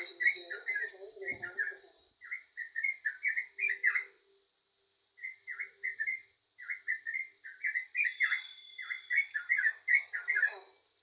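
Yellow-vented bulbul singing in full voice: runs of quick, bubbly chattering notes in short phrases, with a couple of brief pauses.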